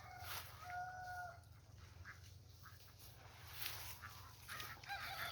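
Chickens clucking faintly, with a few short pitched calls in the first second or so, then only scattered soft ticks.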